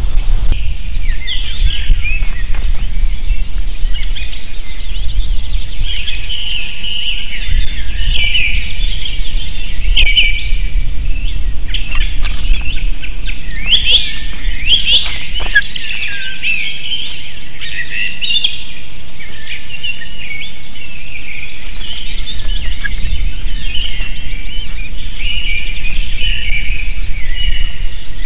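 Birds giving rapid, high chirping calls, many short notes in quick succession throughout, over a steady low rumble.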